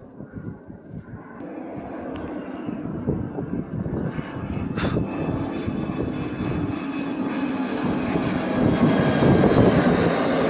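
Fixed-wing firefighting air tanker's engines, growing steadily louder as the plane flies in low.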